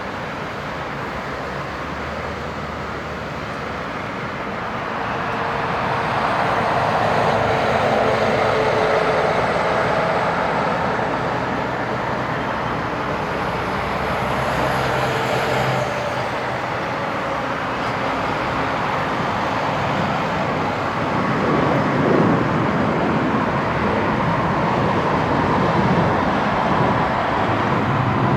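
Airbus A321 airliner's jet engines on landing approach, a steady rushing noise that grows louder about five seconds in. A faint high whine falls in pitch near the middle, and a louder low rumble comes about three quarters of the way through.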